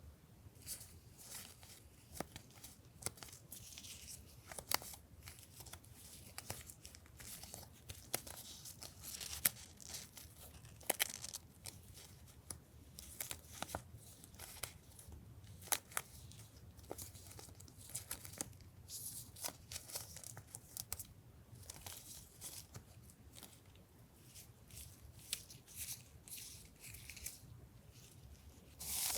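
Paper and plastic packaging of stationery rustling, crinkling and tearing as it is handled and opened, with many small sharp taps and clicks.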